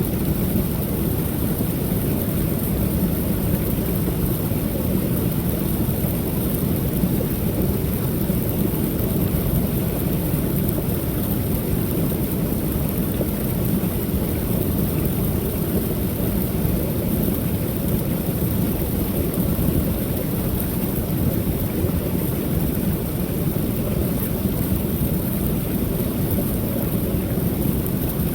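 Creek waterfall: water pouring steadily over the falls as an unbroken rushing roar. It is deepest and strongest in the low end, with a thin hiss on top.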